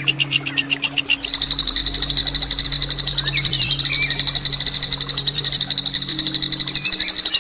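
A songbird's long, harsh rolling trill: a very fast buzzing rattle that runs without a break from about a second in. Softer chirps from other birds sound under it, over a steady low hum.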